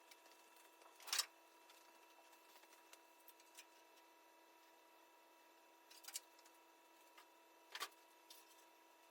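Near silence: a faint steady hum with three brief clicks or knocks, about a second in, around six seconds and near the end.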